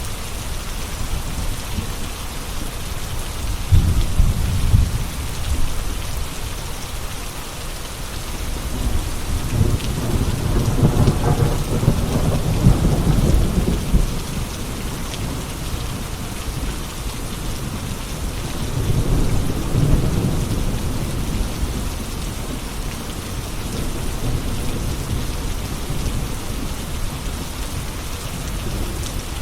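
Steady rain falling, with thunder rumbling low several times: a short roll about four seconds in, a longer rolling peal from about nine to fourteen seconds, and another near twenty seconds.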